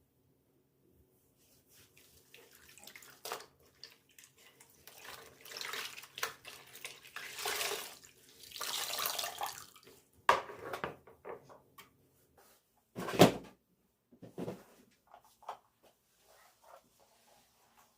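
Water splashing and sloshing in uneven swells as something is washed by hand, with small clicks and knocks of handling and one sharp knock about two-thirds of the way through.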